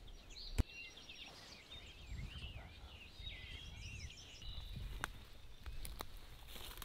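Faint songbirds chirping in a cluster of short rising and falling notes over quiet outdoor background noise, with one sharp click a little under a second in.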